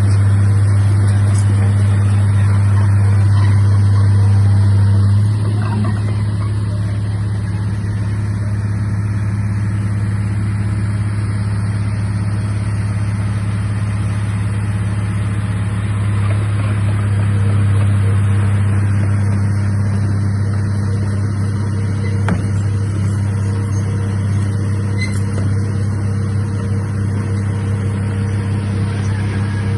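Komatsu D31A bulldozer's diesel engine running steadily under work. It eases off slightly about five seconds in, then holds an even hum.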